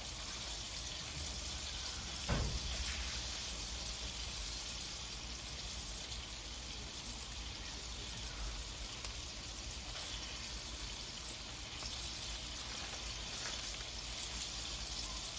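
Chicken feet frying in a pan of hot oil: a steady sizzle, with one knock about two seconds in.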